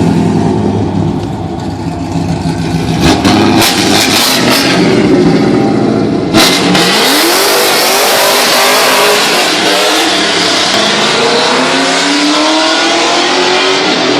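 LS2 6.0-litre V8 in an Infiniti G35 coupe, its exhaust rumbling at idle and light revs for about six seconds. The car then accelerates hard, the exhaust note rising in pitch under a rushing noise.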